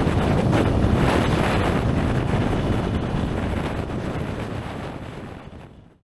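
Strong wind buffeting the microphone: a loud, rumbling rush that fades out over the last couple of seconds and stops about six seconds in.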